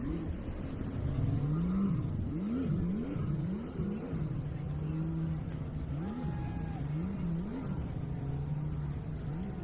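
An engine revving up and down over and over, its pitch swooping up and back in quick cycles between short steady stretches.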